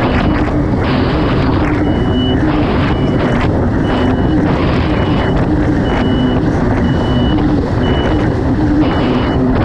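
Kawasaki STX 160 jet ski's four-stroke four-cylinder engine running hard under way, with water spray hissing in surges about once a second as the hull crosses the waves. A short high beep repeats about once a second throughout.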